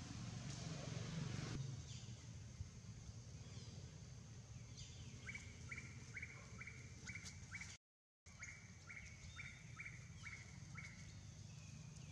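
A bird calling in a quick even series of short notes, about four a second, for several seconds, with a short gap partway through. A low rumble of background noise is louder in the first second and a half.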